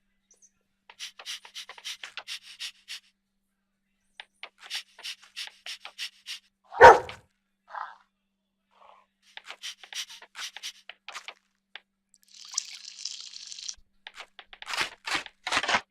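A dog: runs of quick light clicks and scuffles, with one loud, short, sharp sound about seven seconds in and a brief hiss later on.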